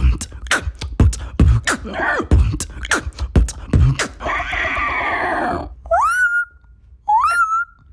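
Mouth beatboxing: about four seconds of rapid kick and click beats, then a held hissing sound, then two short rising whistled squawks imitating a parrot.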